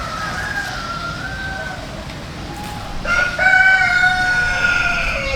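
A rooster crowing: one long, loud call starting about three seconds in and holding for about two seconds, with fainter calls before it.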